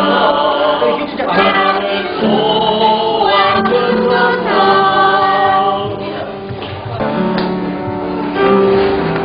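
A group of voices singing a Christian hymn, with long held notes.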